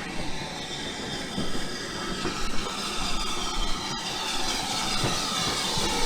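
Swanage Railway steam train running into the station, growing louder, with faint high squeals gliding down in pitch over the noise of the train.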